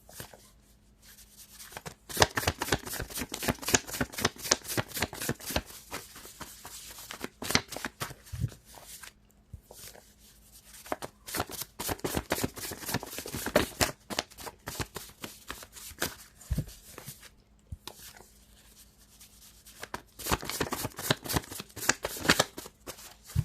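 A deck of tarot cards being shuffled by hand: rapid papery card flicks in three bouts with short pauses between.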